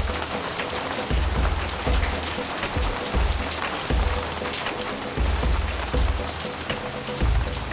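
Heavy thunderstorm rain pouring down, a steady dense hiss full of sharp ticks from drops striking surfaces, with low thudding swells about once a second.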